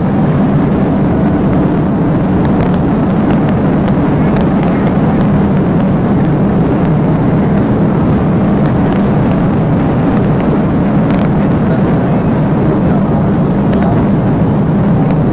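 Police patrol car driving at speed in a pursuit: steady engine and road noise with a low drone, with a few faint ticks.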